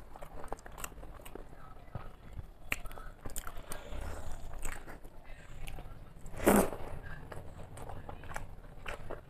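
Close-up mouth sounds of a person eating a rice meal by hand: chewing, with many small wet clicks and smacks. One louder, sudden smack comes about six and a half seconds in.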